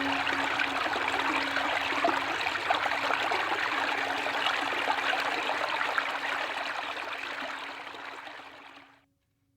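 Stream water flowing and splashing steadily, fading out over the last two seconds or so.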